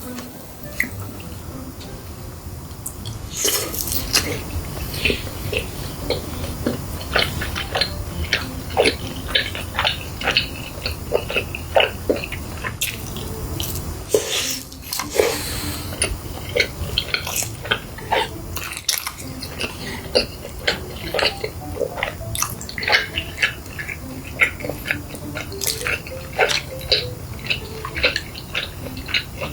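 Close-miked eating sounds: a person chewing food, with frequent wet smacks and sharp clicks, several a second.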